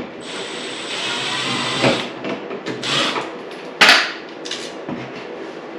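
Tool work at a Honda CRF450R's water pump drain bolt: a steady rushing noise for about two seconds, then a few sharp metal knocks and clicks, the loudest about four seconds in.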